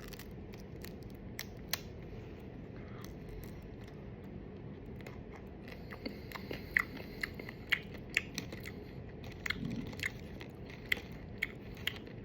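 A person chewing crunchy Bento dried-squid snack wafers: sparse sharp crunches at first, coming thicker from about halfway in.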